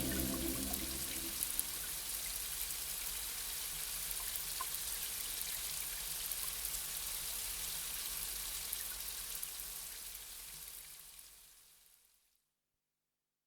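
Steady rain, an even hiss with fine crackling patter of drops, fading out to silence near the end. The last of a soft music bed dies away in the first second.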